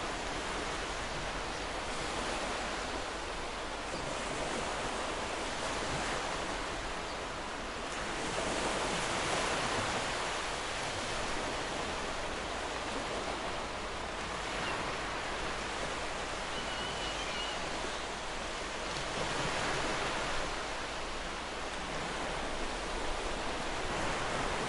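Ocean surf: waves washing in as a steady hiss and rush that swells louder now and then.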